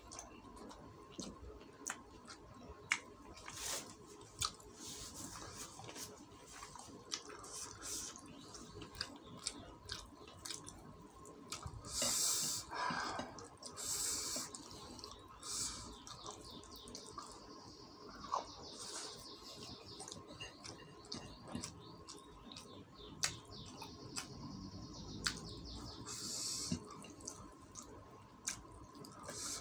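Wet, close-up eating sounds: lip smacks and chewing of rice and chicken in sour garang asem broth, eaten by hand, heard as many small sharp clicks. A few louder slurping sucks stand out around the middle and near the end.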